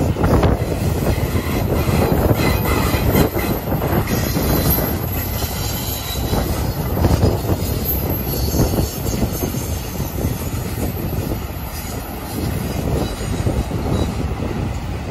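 Double-stack intermodal freight train's loaded well cars rolling past: a steady rumble and clatter of steel wheels on rail, with thin high wheel squeals now and then.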